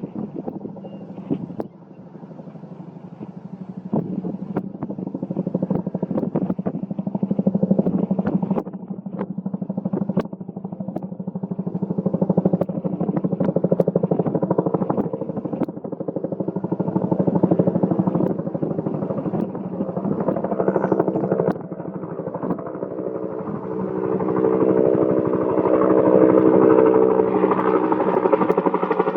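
Bell UH-1N Huey helicopter's main rotor beating rapidly over a steady engine drone, growing louder near the end as the helicopter comes closer.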